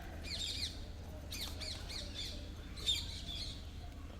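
Pet parrots chirping and squawking: clusters of short, high chirps that quickly rise and fall in pitch, coming in bursts every half second or so, one louder run near the end.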